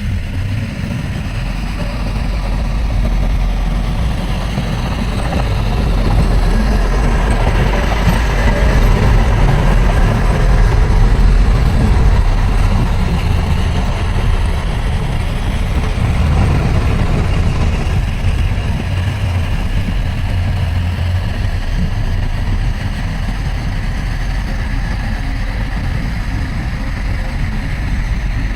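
Heavy diesel engine of earthmoving machinery running steadily. It grows louder for several seconds and then eases off a little after about twelve seconds.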